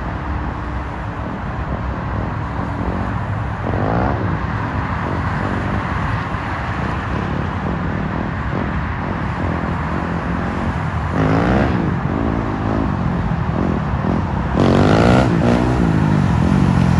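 Motor vehicle engines revving and passing three times, the last and loudest near the end, over a steady rumble of road and wind noise.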